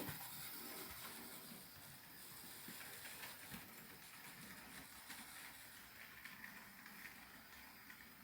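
Trix HO-scale model locomotive running on its track: a faint, steady running noise with scattered light clicks.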